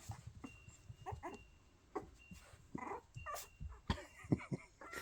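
Puppies giving a scatter of short, faint yips and whimpers, some of their first attempts at barking, with a thin high whine now and then.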